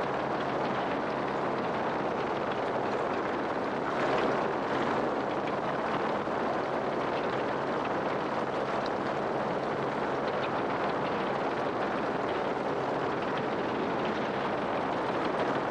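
Steady engine drone under a continuous rush of wind and motion noise from a moving vehicle, with a slight swell about four seconds in.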